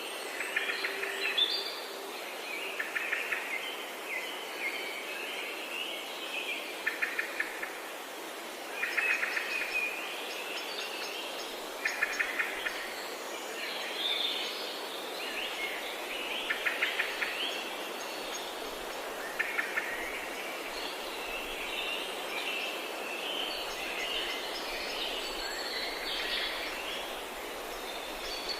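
Forest songbirds singing: short, rapidly trilled phrases repeated every two to three seconds, with other chirps in between, over a steady rushing hiss.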